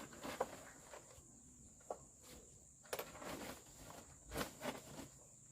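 Insects droning at a steady high pitch, with a few scattered light knocks and taps, the loudest about four seconds in.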